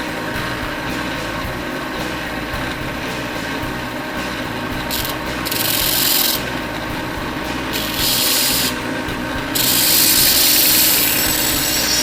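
A grinder running with a steady whine while metal side plates are ground to clean up and match their profiles. The grinding comes in four separate stretches of loud hiss in the second half, the longest and loudest a couple of seconds before the end.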